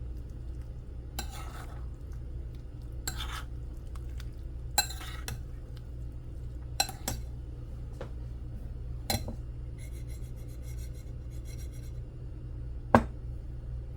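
Spoon scraping and clinking against a dish, about six separate strokes with a sharp clink near the end, over a steady low hum.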